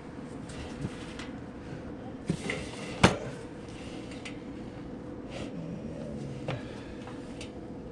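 Scattered metallic clanks and knocks from handling a condenser fan motor and its mounting parts, the loudest a single sharp clank about three seconds in.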